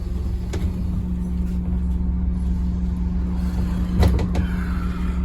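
Interior sound of a Scania N230UD OMNICity bus, its five-cylinder diesel engine running with a steady hum. A faint click comes about half a second in and a sharper knock about four seconds in.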